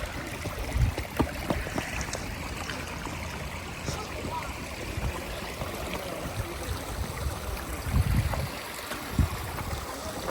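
Small woodland creek running steadily over rocks, with a few dull low thumps about a second in and again about eight and nine seconds in.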